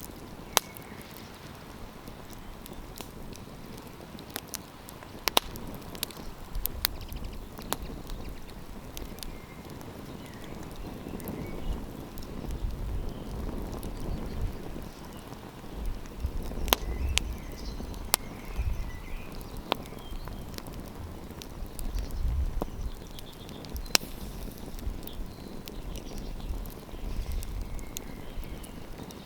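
Wood campfire crackling, with sharp pops at irregular intervals over a steady low hiss. A low rumble comes and goes through the second half.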